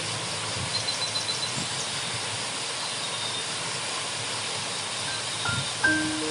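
Steady rushing roar of a waterfall. A few music notes come in near the end.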